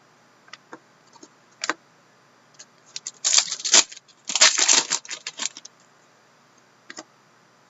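Trading cards being handled: a few light clicks, then two bursts of rustling and flicking as the cards are slid and sorted, about three and four and a half seconds in, and a couple more clicks near the end.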